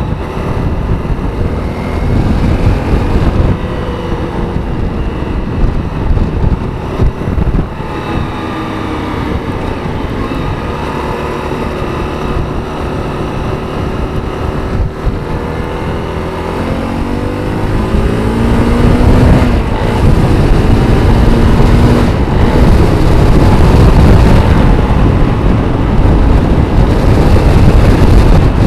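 Honda CRF250 single-cylinder four-stroke engine running through its stock exhaust. About two-thirds of the way in it rises in pitch as it speeds up, then stays louder to the end.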